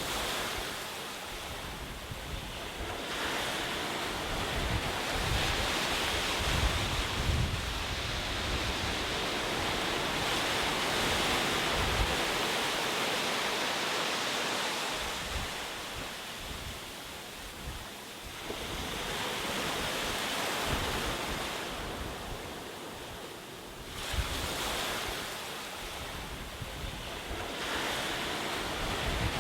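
Ocean waves breaking and washing on a shore, the surf swelling and ebbing in slow surges several seconds long, with wind rumbling on the microphone.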